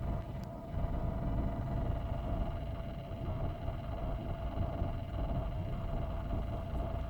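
Car engine running steadily: a constant low rumble with a steady tone above it that holds the same pitch throughout.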